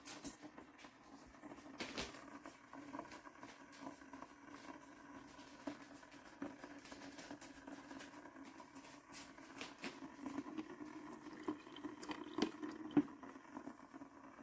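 Hamilton Beach BrewStation drip coffee maker brewing: faint crackling and scattered ticks from the heating water over a steady low hum.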